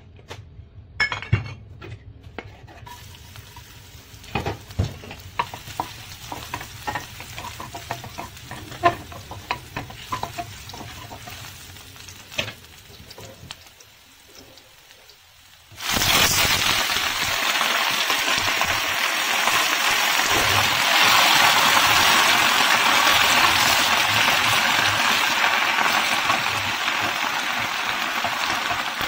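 Chopped garlic and ginger frying in a little oil in a non-stick pan, with scattered clicks and light crackles as they are stirred. About halfway in, a sudden loud sizzle starts as romaine lettuce leaves go into the hot oil. It keeps on steadily while the leaves are tossed with a wooden spatula.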